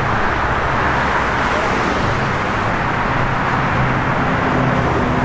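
Steady road traffic noise: a continuous wash of cars going by, with no single event standing out.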